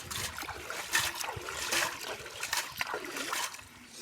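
Irregular splashing and sloshing of shallow water, dying down near the end.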